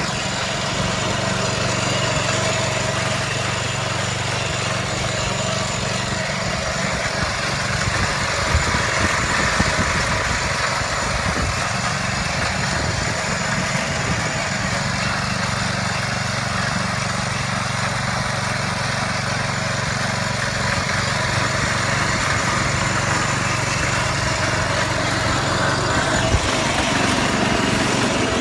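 Bolens lawn tractor's small engine running steadily.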